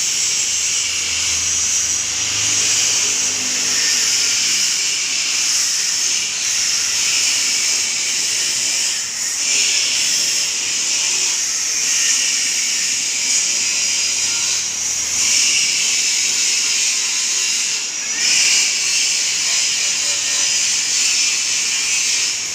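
Motorized pipe-and-plate rolling machine running steadily with a high hissing whine while it rolls a flat steel plate through its rollers. The sound dips briefly a few times.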